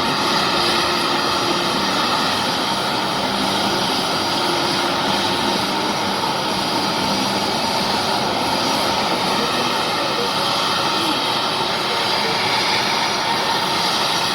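Aircraft jet engines running steadily: a continuous rushing noise with steady whining tones that hold the same pitch throughout.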